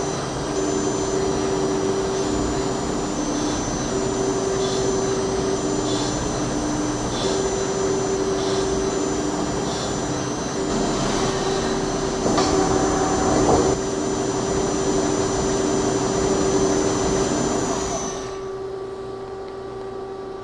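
PLG-42XL CNC gang-tool lathe running while cutting steel: a steady machine whir with a high, thin whine over it. Near the end the noise drops away to a quieter hum.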